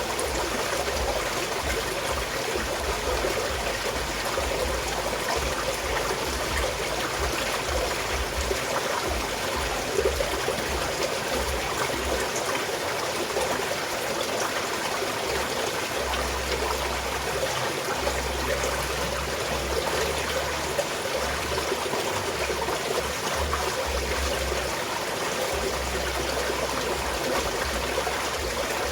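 Small stream of water flowing and trickling steadily.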